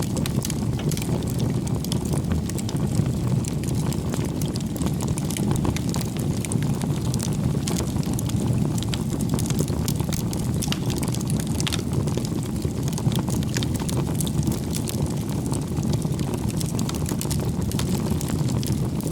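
Wood campfire burning: a steady low rumble of flames with frequent small crackles and pops from the burning firewood.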